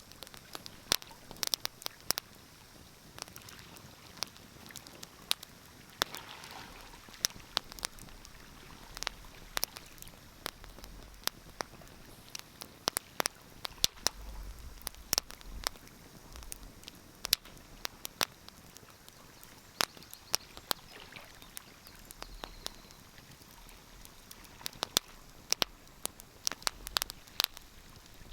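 Wood fire crackling in a fireplace: irregular sharp pops and snaps, sometimes several close together, over a faint steady hiss.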